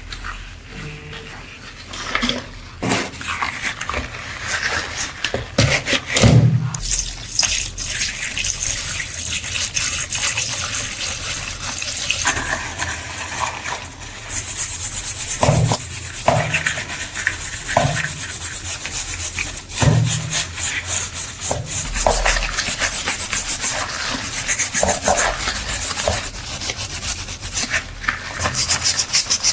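Abrasive sanding on a metal part: rapid rubbing strokes that become louder and denser about halfway through, with a few knocks as the part is handled.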